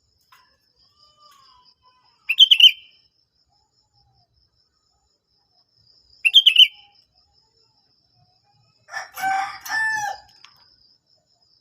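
Sooty-headed bulbul (kutilang) giving two short, quick bubbly calls a few seconds apart. About nine seconds in, a rooster crows in two parts, louder than the birdsong. A faint steady high-pitched tone runs underneath.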